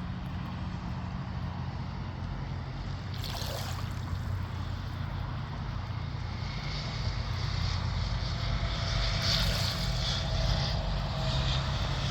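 A motor running with a steady low drone, over sea water washing and hissing that swells briefly about three seconds in and again, louder, in the second half.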